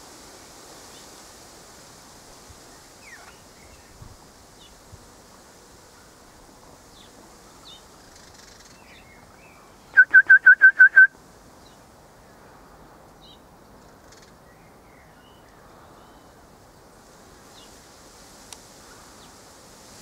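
A bird calls a rapid run of about eight loud whistled notes on one steady pitch, lasting about a second, over a quiet outdoor background with a few faint chirps.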